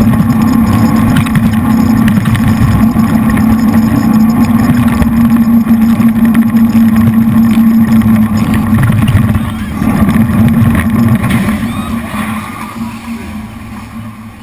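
Jet boat's three V8 engines running hard at speed, a loud steady drone, dropping off in level over the last few seconds.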